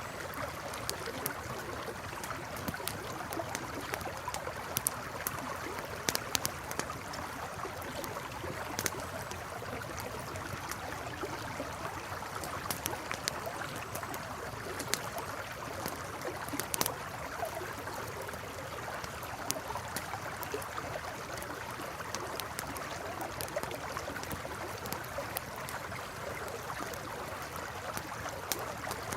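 A river or stream flowing steadily, with a campfire crackling over it in frequent irregular sharp pops and snaps.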